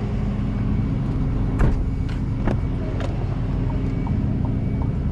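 A truck engine idling steadily, with a few sharp clicks a second and a half to three seconds in, then light regular ticking, about three a second, near the end.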